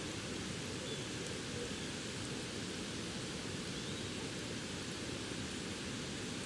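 Steady rushing of river water, with a bonfire giving a few faint crackles over it.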